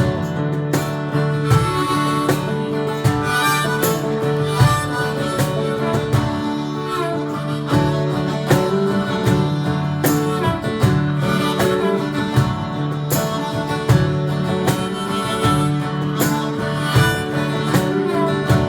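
Live country band playing an instrumental break, with a harmonica carrying the lead over strummed guitars and a steady beat.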